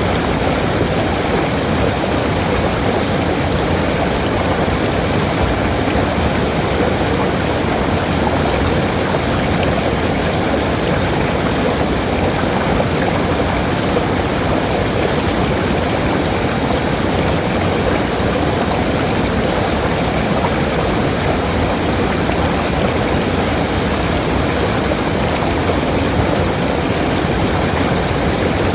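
Waterfall: water pouring and splashing in a loud, steady rush with no change.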